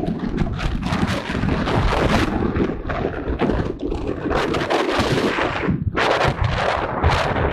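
Heavy wind buffeting on the microphone, loud and gusty, with rough rumbling and crackling.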